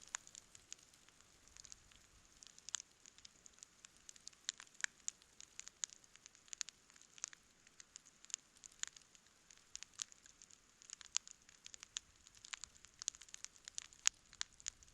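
Wood campfire crackling, with frequent sharp pops and snaps at an irregular pace over a faint hiss.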